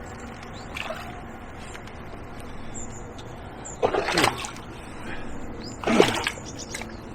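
Steady trickle of water over the tidal river mud, broken by two short, louder sounds about four and six seconds in.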